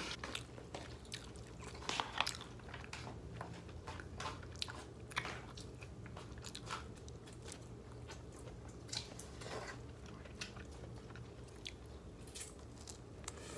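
Close-up eating sounds: a person chewing and biting into food, with scattered short crunches and small clicks.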